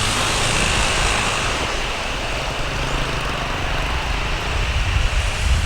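Airbus A320 jet engines running as the airliner departs, heard as a steady broad roar with low rumble. A high whine fades out in the first second.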